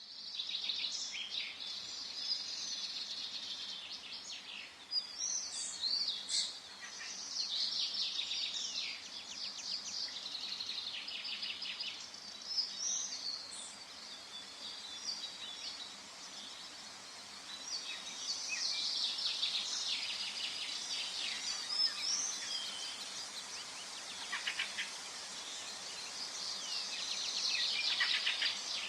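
Forest ambience with several birds singing at once, a dense overlapping chorus of chirps and trills, over a faint steady background hum.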